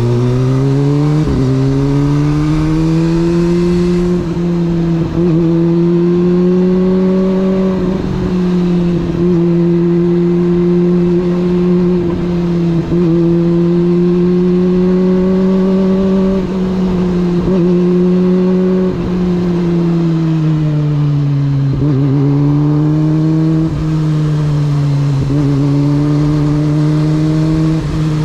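Motorcycle engine under way: it revs up over the first couple of seconds, then holds a steady cruising note. About twenty seconds in the pitch drops as it slows, and it settles at a lower, steady note.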